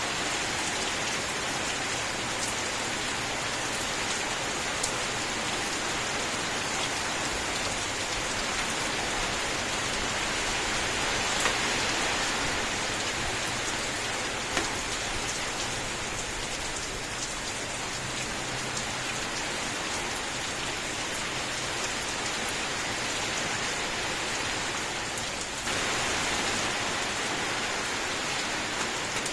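Steady, continuous rain falling, with scattered individual drops ticking through the hiss. Near the end the sound dips briefly and then jumps back abruptly to a slightly brighter, louder rain.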